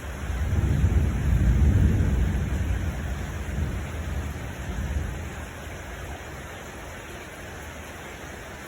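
A low rumble of thunder over steady rain. The thunder swells about half a second in, then dies away over the next few seconds.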